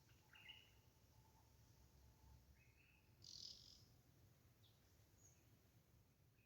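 Faint, scattered chirps of wild birds: a few short high calls, with a brief, higher raspy call a little past three seconds in that is the loudest sound.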